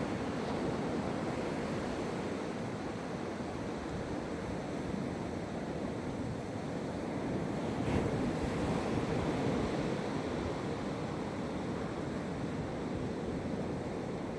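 Atlantic Ocean surf breaking and washing up the beach: a steady rushing of waves, swelling slightly about eight seconds in.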